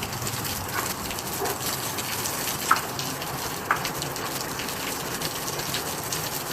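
Steady rush of rain and running water, with a few short high chirps over it.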